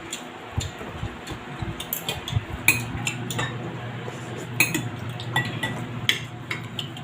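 Metal cutlery clinking and scraping against plates and bowls while eating, a quick irregular series of sharp clinks.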